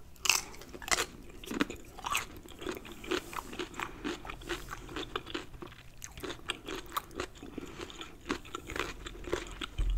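Close-miked crunching and chewing of a raw cucumber slice: a bite and then a run of sharp, crisp crunches, one or two a second, loudest in the first second.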